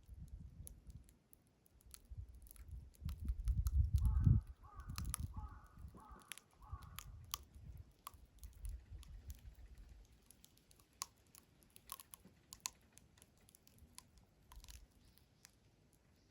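Wood fire crackling with scattered sharp pops, while a crow caws about five times in quick succession from about four seconds in. A low rumble swells just before the caws.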